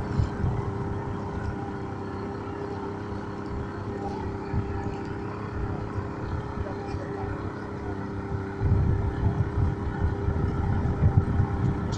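The Zanzibar One boat's engines running with a steady low hum and rumble as it comes into port. Wind buffets the microphone from about two-thirds of the way in.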